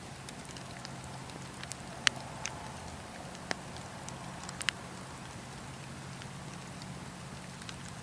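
Wood fire crackling, with a few sharp pops over a steady low rumble; the loudest pop comes about two seconds in.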